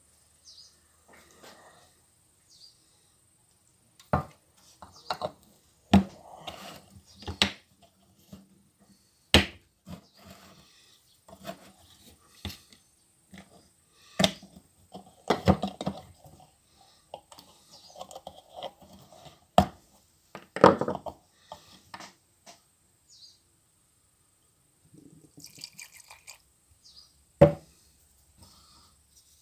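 Irregular sharp knocks and clatter from hard objects being handled, with rustling in between and short pauses; about half a dozen knocks stand out as the loudest.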